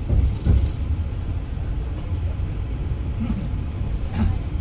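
Steady low rumble of the Argo Bromo Anggrek passenger train running on the rails.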